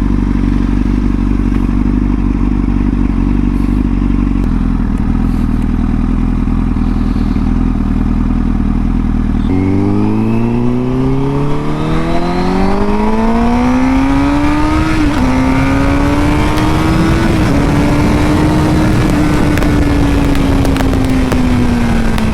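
Honda Fireblade's inline-four engine idling steadily, then pulling away: the pitch climbs for several seconds, dips briefly twice at the gear changes, holds steady and eases off near the end.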